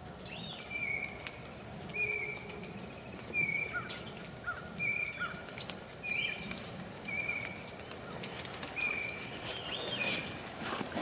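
Birds calling: a run of short whistled notes, repeated about once a second, some ending in a quick upward flick, with a few other chirps over faint background hiss.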